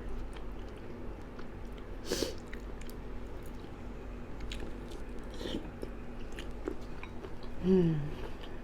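A person chewing and eating gumbo close to the microphone, with small wet mouth clicks, and a short falling hum from the eater near the end.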